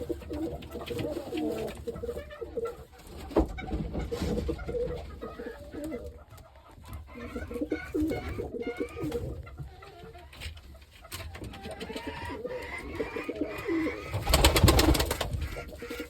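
Pigeons cooing repeatedly in a coop, low wavering calls overlapping one another. Near the end comes a loud, brief rustling burst.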